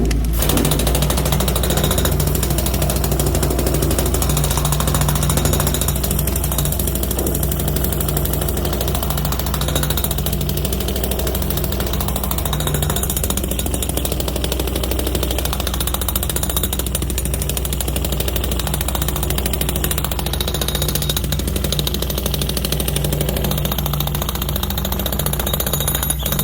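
Pneumatic chipping hammer hammering rapidly and continuously on hardened concrete set inside a ready-mix truck drum, over a steady low hum. It starts abruptly right at the outset.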